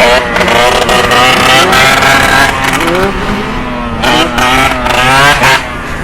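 Motorcycle engine revving hard, loud, its pitch rising and falling with the throttle, then dropping away sharply about five and a half seconds in.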